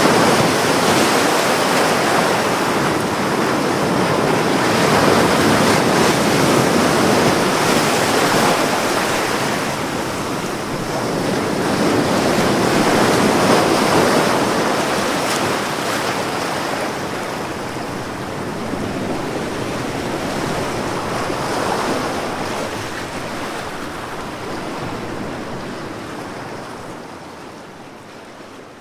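Ocean waves washing onto a beach, a steady surf that swells and eases in slow surges every several seconds, growing fainter near the end.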